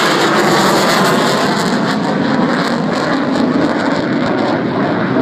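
Loud, steady jet engine noise of a military aircraft flying over, easing slightly toward the end and cutting off abruptly at the end.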